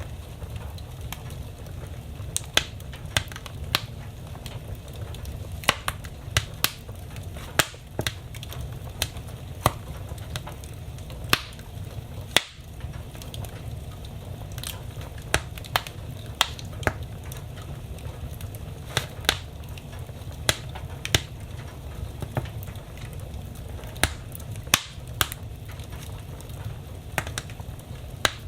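Wood fire burning in a fireplace: a steady low rumble of the flames with irregular sharp crackles and pops of burning logs, some much louder than others.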